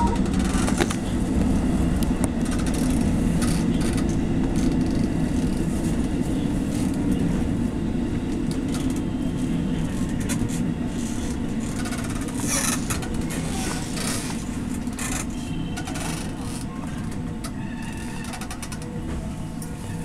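Electric train running and braking into a station, heard from aboard: a steady low rumble of wheels on rails that slowly quietens as it slows.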